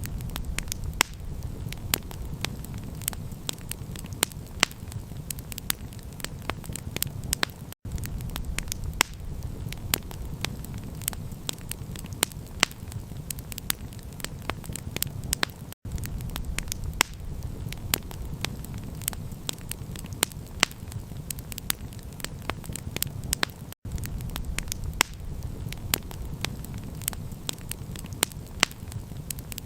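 Campfire crackling with many sharp pops over a steady low rumble. The sound cuts out for an instant about every eight seconds, at the seams of a looped recording.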